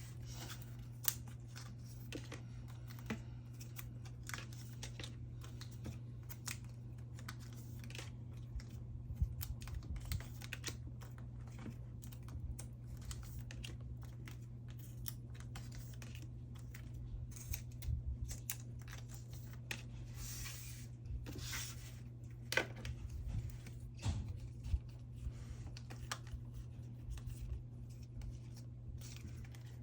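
Photocards being slid out of plastic sleeves and handled on a desk: irregular small clicks and taps of card and plastic, with a longer plastic swish about two-thirds of the way through. A steady low hum runs underneath.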